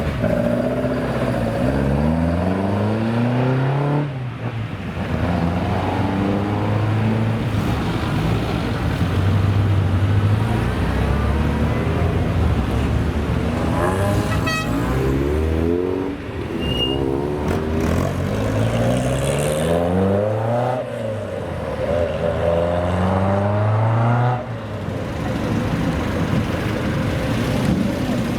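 Car engine accelerating hard. Its pitch climbs and then drops sharply at each gearshift, about four times.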